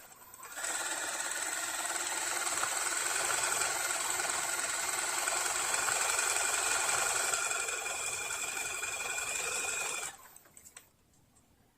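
Riccar Bernina Holidayne 1090 household sewing machine running, its motor and mechanism whirring steadily, then stopping about ten seconds in with a few faint ticks. It is being run while freeing and oiling a mechanism stiff from long disuse.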